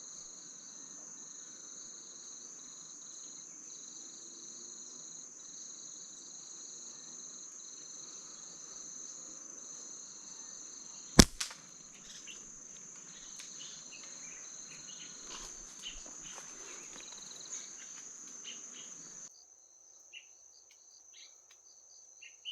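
Insects trilling steadily in a high tone, with one sharp crack about eleven seconds in, the snap of a slingshot shot, followed by scattered light clicks and rustles. The background drops abruptly near the end.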